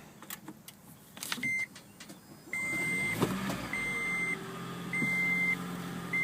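Electronic warning beeps from a 2011 Toyota Prius: a steady high tone about half a second long, repeated roughly once a second, after a few clicks. A low steady hum sets in underneath about two and a half seconds in.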